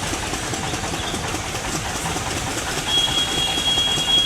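Tractor engines running, a steady dense mechanical noise. About three seconds in, a high, steady single tone starts over it and carries on to the end.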